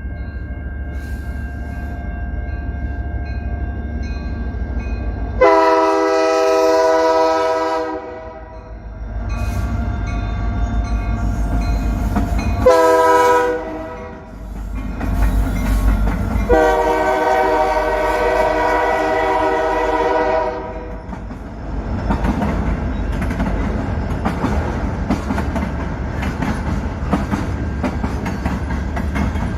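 A CN freight train's diesel locomotive rumbles past and sounds its horn three times: long, short, long. The freight cars then roll by with a steady clickety-clack of wheels over the rail joints.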